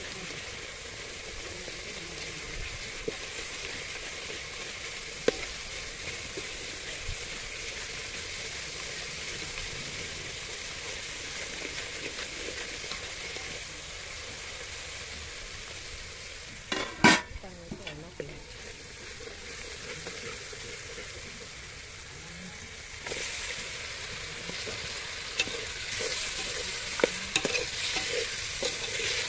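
Red curry masala frying and sizzling in oil in an aluminium pot while a steel ladle stirs it, scraping and clinking against the pot. There is one sharp, loud knock about halfway through, and the stirring grows louder, with more clinks, near the end.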